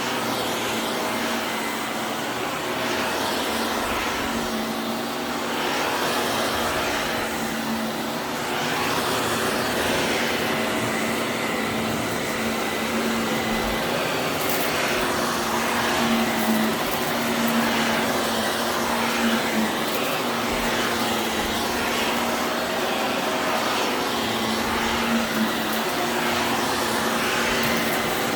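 Vacuum cleaner running with a steady hum, its sound swelling and sinking every second or two as it is pushed back and forth over the floor.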